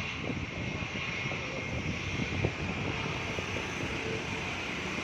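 Airliner engines running at takeoff power: a steady rumble and hiss.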